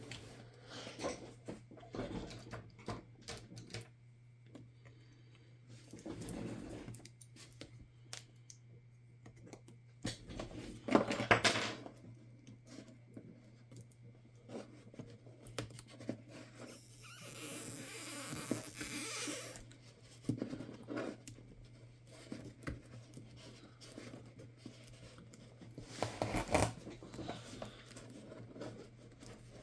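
Hands working on an HP 15s laptop during screen disassembly: scattered clicks and knocks of plastic parts and tools, with the loudest clatter a little over a third of the way in. Past the middle comes a scraping, tearing-like noise lasting a couple of seconds, and a steady low hum runs underneath.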